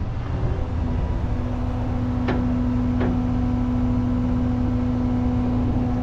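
Cat 320 excavator's diesel engine running, with a steady hydraulic whine that comes in about half a second in as the boom and bucket are worked. Two sharp metallic clicks come about two and three seconds in.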